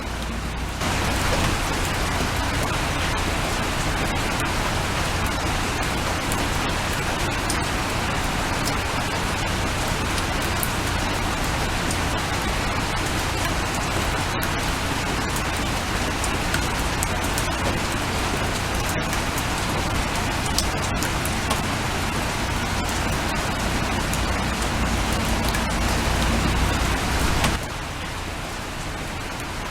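Steady rain, with scattered sharp ticks of drops hitting a surface. It steps up louder about a second in and drops back near the end.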